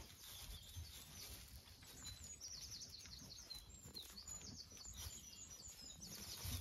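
Faint songbird song: runs of quick, high repeated chirps and trills, several phrases one after another, over a faint low background rumble.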